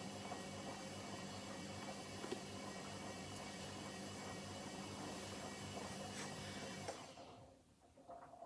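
Hoover H-Wash 300 washing machine's motor turning the drum with a steady whirr that cuts off about seven seconds in, followed by a few faint ticks.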